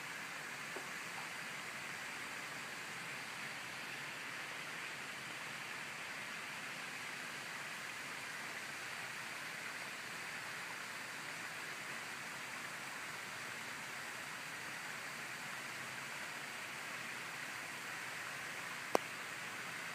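Steady, even hiss-like noise with no distinct events, broken by a single sharp click about nineteen seconds in.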